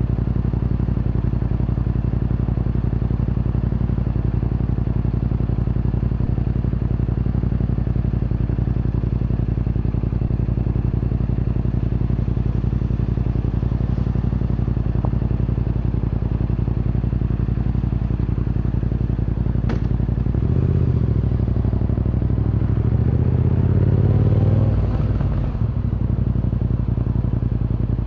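Yamaha MT-07 parallel-twin engine idling through an Akrapovic Racing Line exhaust, a steady, even note. About two-thirds of the way through it is revved for about five seconds, the pitch climbing, then it drops back to idle.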